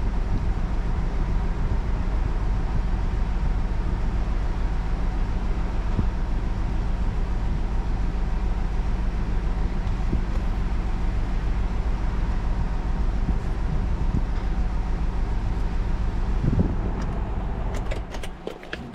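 A car running steadily: a low, even hum of engine and road noise. It drops away sharply near the end, followed by a few sharp clicks.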